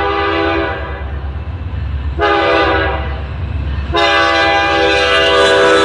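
Approaching Norfolk Southern diesel locomotive sounding its air horn over the rumble of the train. A long blast cuts off under a second in, a short blast follows about two seconds in, and a long blast starts about four seconds in. This is the long–short–long ending of a grade-crossing horn signal.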